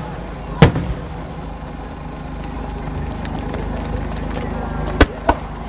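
Aerial firework shells bursting: one sharp bang about half a second in, then two more close together near the end, over a steady low background rumble.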